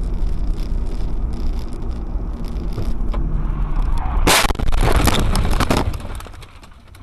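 Dashcam recording of a car collision: steady low road and engine rumble, then a sudden loud crash about four seconds in followed by a second or so of crunching and scraping that dies away.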